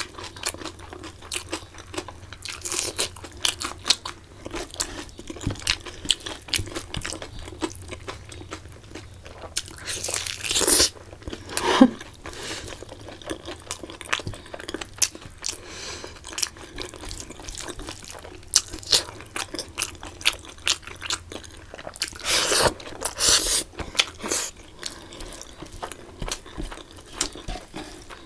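Close-miked chewing and crunching of food, with many small mouth clicks. There are louder stretches about ten seconds in and again about twenty-two seconds in.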